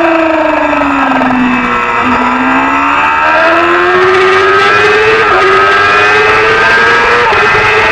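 A Supersport 300 racing motorcycle engine running hard: its pitch falls for about two seconds as the bike slows, then climbs steadily as it accelerates again, with two brief hitches in the note on the way up.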